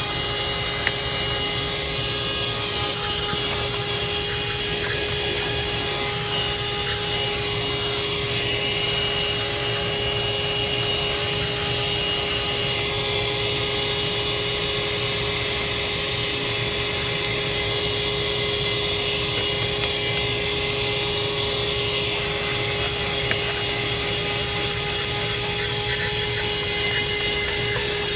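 Handheld 12 V car vacuum cleaner running steadily: a constant motor whine over the rush of air.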